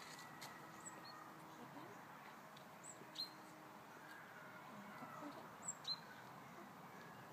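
Quiet outdoor background with several short, high bird chirps, each sweeping sharply downward, one about a second in, then two pairs about three and six seconds in.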